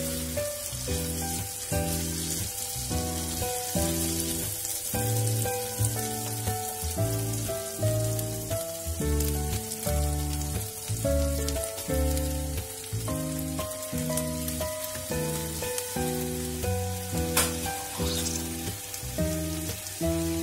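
Ground spice paste, salam leaves and lemongrass sizzling steadily in hot oil in a wok as raw chicken pieces are laid in, under background music with a simple melody and bass line. A single sharp click about 17 seconds in.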